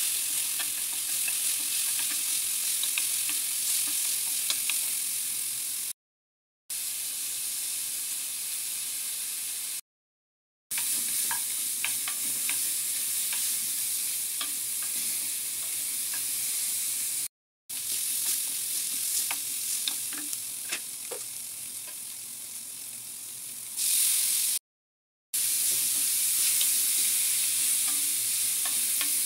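Egg noodles, onion and peppers frying in oil in a pan with a steady sizzle while being stirred, with scattered light clicks of the utensil against the pan. The sizzle breaks off abruptly to silence four times.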